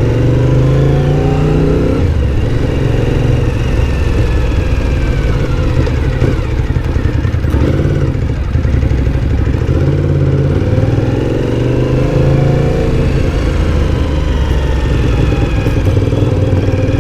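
Motorcycle engine pulling through the gears, its pitch climbing, dropping back and climbing again, heard from a helmet-mounted camera over a steady low wind rumble.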